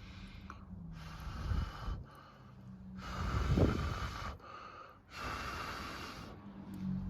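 A person blowing out hard three times, each blow a breathy rush of air lasting about a second.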